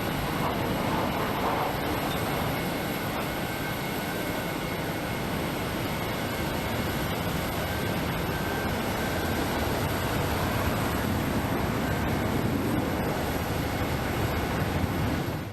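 Jet airliner engines running, a steady, dense rush of engine noise.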